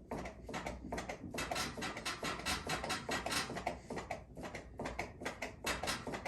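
GE dryer timer being worked back and forth by its knob: a dense, irregular run of clicks and scrapes from the stiff, seized timer shaft being freed up with WD-40.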